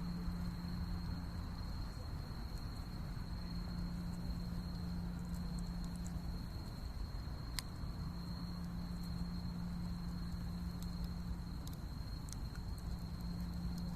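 A steady high-pitched insect trill over a low hum that drops out briefly three times, with scattered faint crackles and one sharp snap about halfway through.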